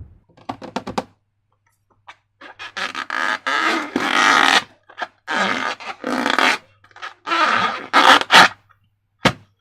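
Slime squelching and squishing as it is handled, in several noisy bursts of a second or two each, with a couple of short clicks near the end.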